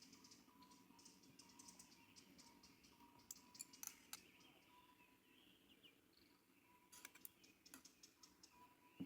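Near silence, broken by faint small clicks and ticks, with short runs of them a little past the middle and again near the end.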